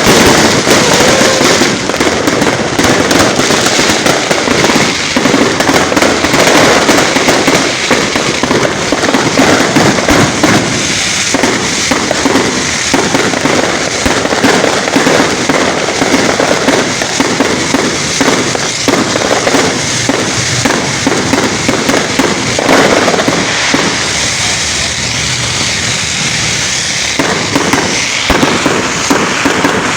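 Fountain fireworks spraying sparks: a loud, continuous crackling hiss, thick with rapid small pops.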